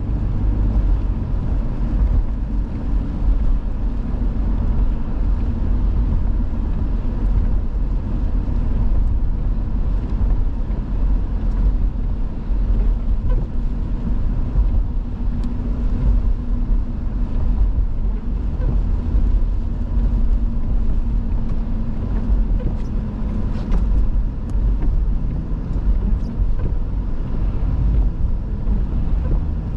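A car driving along a snowy road: a steady low rumble of engine and tyres.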